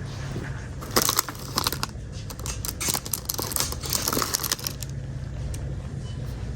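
A quick, irregular clatter of small clicks and rattles from about a second in to about four and a half seconds, over a steady low hum.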